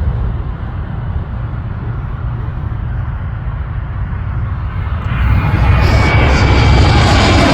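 Jet aircraft engines over a low rumble, rising sharply to a loud rush with a thin high whine about five seconds in.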